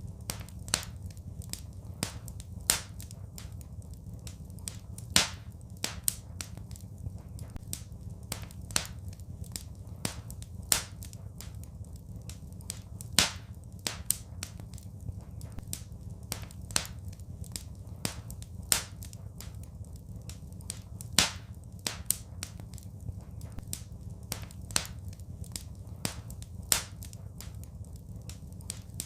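Wood fire crackling in a fireplace: frequent small sharp crackles, with louder pops every couple of seconds, over a low steady rumble.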